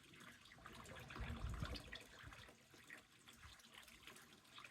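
Faint water trickling and dripping in a garden koi pond, with a soft low rumble about a second and a half in.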